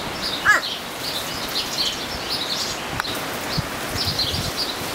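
Small birds chirping over and over in short, high-pitched notes, with one brief falling call about half a second in.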